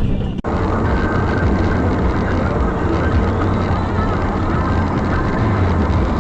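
Steady engine and road noise of a car on the move, as heard from a dashboard camera inside the cabin, with a low hum. It starts with an abrupt cut about half a second in.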